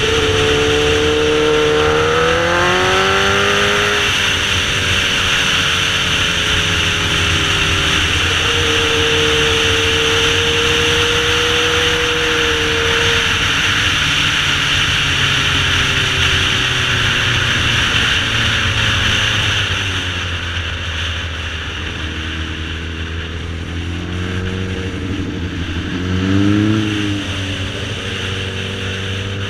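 A sportbike engine running under throttle. Its pitch rises in the first few seconds, holds, then drops as the throttle is rolled off around twenty seconds in, and it revs up briefly near the end. A steady high hiss runs underneath.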